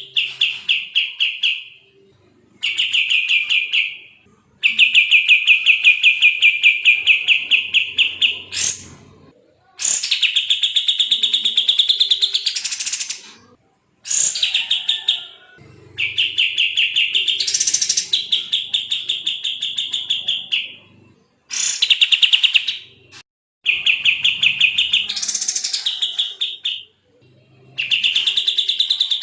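A kapas tembak songbird singing in fast, tightly packed trilled phrases, each a rapid rattle of notes lasting one to four seconds, some sweeping upward at the end, with short pauses between them. It is the rapid 'gacor speed rapat' song used as a master recording to train other songbirds.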